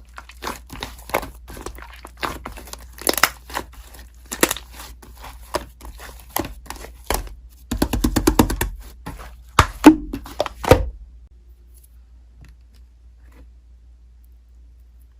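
Slime being squished and stretched by hand, giving many crackling pops and clicks. The popping stops about eleven seconds in, leaving a faint steady hum.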